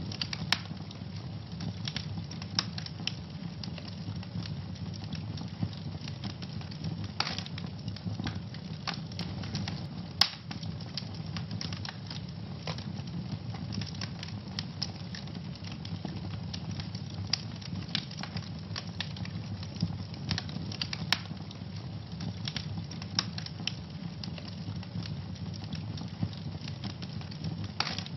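Wood fire burning in a fireplace: steady low rumble of the flames with irregular crackles and occasional sharper pops.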